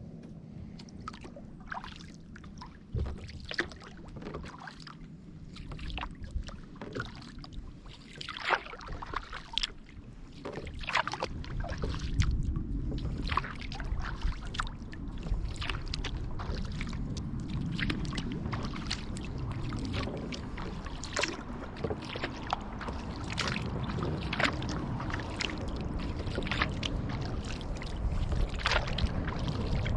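Kayak paddle strokes dipping into the river, with splashes and drips of water running off the blades. A low rumble builds in about a third of the way through and stays under the strokes.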